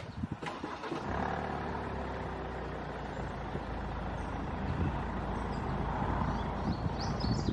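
Car engine of the undertaker's car (hearse) running steadily at close range. It comes on about a second in, after a sharp click.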